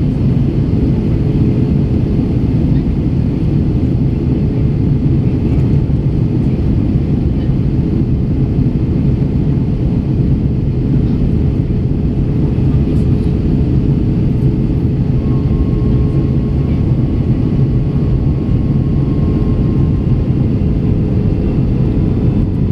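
Steady in-flight cabin noise of an Airbus A321: engine drone and airflow, with a constant hum running through it. A faint higher tone comes in for a few seconds past the middle.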